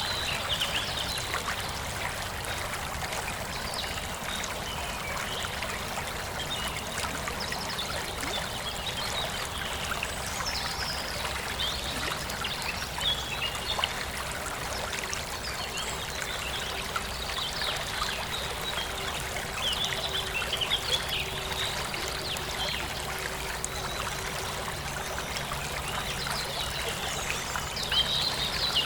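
Forest stream trickling steadily, with birds chirping now and then.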